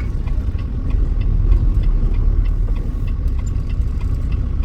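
Truck engine running with a steady low rumble, and faint light ticks repeating several times a second.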